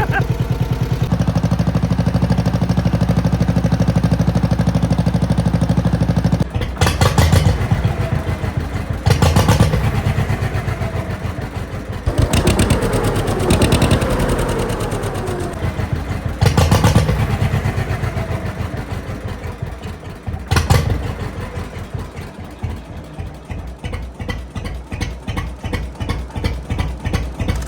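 John Deere 530 two-cylinder tractor engine running through a 5-inch straight pipe. It runs steadily, is revved in about five short bursts, then drops back to a slow idle in which each exhaust pop can be heard on its own.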